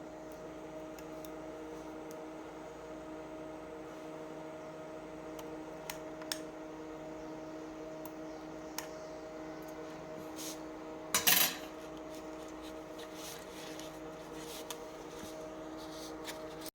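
A steady low hum with scattered small clicks of hard objects being handled, and a short clatter about eleven seconds in.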